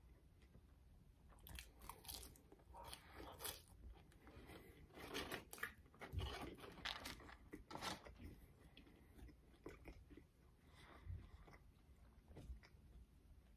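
Close-up chewing and biting into crispy French fries: a run of irregular, soft crunches, busiest in the middle and thinning out near the end.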